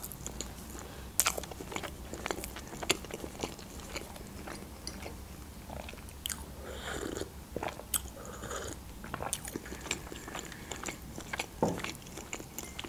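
Close-miked mouth sounds of someone chewing a soft rolled pancake, with scattered small wet clicks. About six to seven seconds in there is a sip and swallow from a mug.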